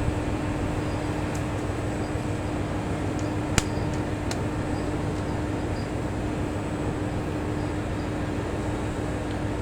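Diesel railcar of the Setsugekka resort train standing at the platform, its engine and equipment giving a steady hum, with one sharp click about three and a half seconds in.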